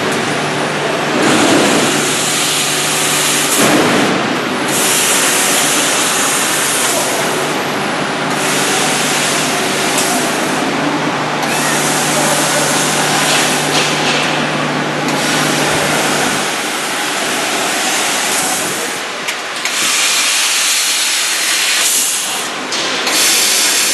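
CNC laser cutter cutting thin sheet metal: a loud hiss of assist gas that switches on and off every second or two as it cuts, over a steady machine hum that stops about two-thirds of the way through.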